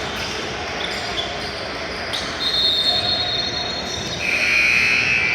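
Gym sounds from a basketball game: a ball dribbling and crowd voices over a constant hall din. Two high-pitched squeals stand out, a shorter one past the middle and a louder one near the end.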